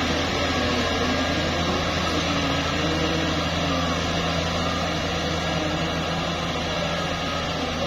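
Heavy machine's diesel engine running steadily, a low even hum. A fixed higher tone joins it about two seconds in.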